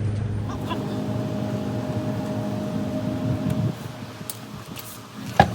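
A steady mechanical hum with a few held tones that stops about three and a half seconds in, followed by two sharp clicks near the end.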